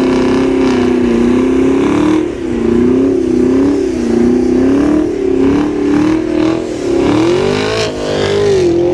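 Car engine revving hard and held at high revs, its pitch swinging up and down as the throttle is worked, during a street stunt.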